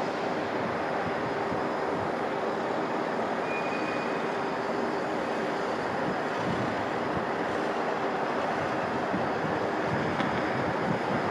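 Boeing 757-256 jet engines at takeoff power, heard as a steady, even rushing noise with a faint low hum.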